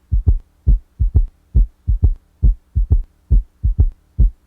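Recorded heart sounds with an S3 gallop: each beat is a triplet of low thuds, S1, then S2 followed closely by a low-pitched S3 in early diastole, the 'Ken-tuc-ky' rhythm, about one triplet a second. When pathological, this third heart sound is typical of congestive heart failure.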